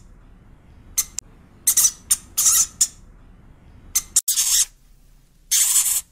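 A small rodent, such as a squirrel or hamster, calling in short, high-pitched squeaks and chirps in irregular clusters.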